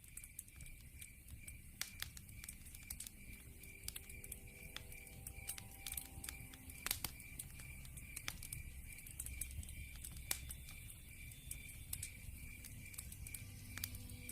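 Wood fire burning in a fireplace, crackling with many sharp, irregular pops, over a low rumble. Behind it runs a steady high chirp repeating about two to three times a second.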